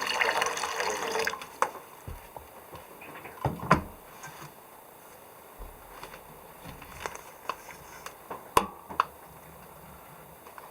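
Running water that stops about a second in, followed by a few scattered light clicks and knocks.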